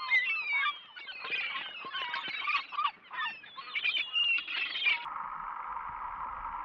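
Many quick, high chirps and squeaks from small animals, overlapping busily for about five seconds, then cut off abruptly and replaced by a steady even hiss.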